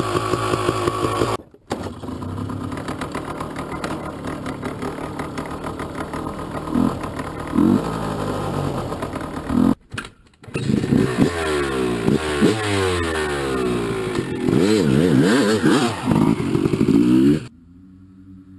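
Two-stroke motorcycle engine running and revving, rising and falling in pitch again and again, with sudden breaks where clips are cut together. Near the end it drops abruptly to a quieter, steady engine hum.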